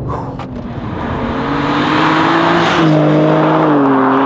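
BMW G80 M3's 3-litre twin-turbo straight-six accelerating hard at full throttle, its note rising steadily over wind and tyre roar, then stepping down in pitch near the end as it shifts up.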